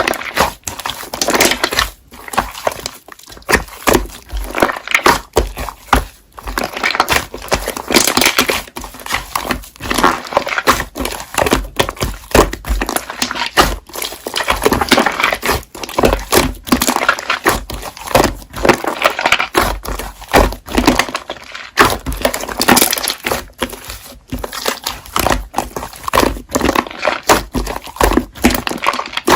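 Slime being squeezed and pressed by hand, giving a continuous run of crackling clicks.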